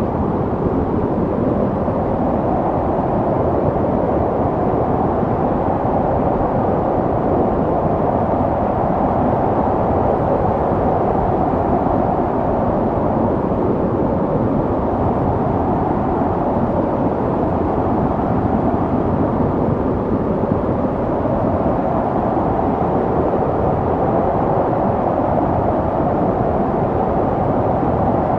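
Snowstorm wind blowing as a steady, dense rush, deep-toned, swelling gently now and then.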